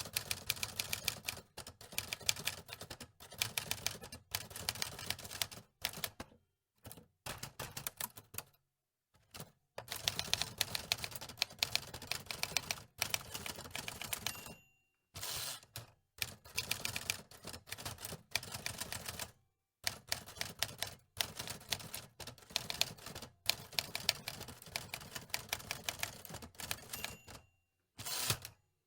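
Antique manual typewriter being typed on: rapid runs of key clacks in bursts of several seconds, broken by short pauses.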